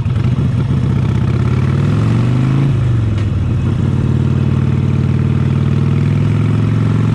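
Harley-Davidson Sportster 72's 1200 cc Evolution V-twin running through Vance & Hines side-shot pipes under acceleration. The pitch climbs, drops sharply with an upshift about three seconds in, climbs again, then holds steady at cruising speed.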